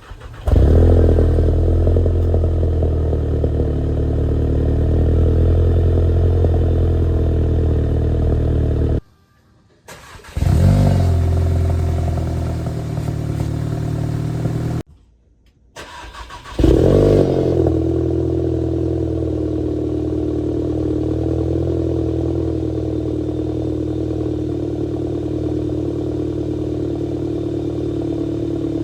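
Exhaust of a 2018 VW Golf GTI Mk7.5, turbocharged 2.0-litre four-cylinder, on cold starts. There are three start-ups, each a sudden flare of engine noise; the last settles into a steady fast idle.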